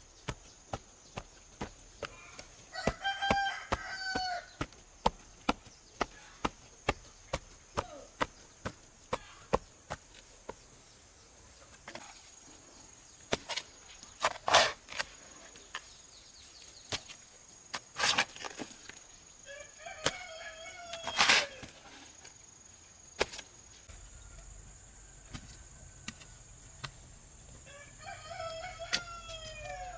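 A rooster crowing three times, over a run of sharp strikes at about two a second that stops about ten seconds in, with a few louder single knocks later on.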